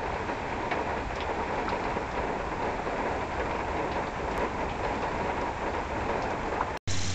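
Steady rain falling, an even hiss with scattered light drop taps, cut off abruptly by a brief dropout near the end.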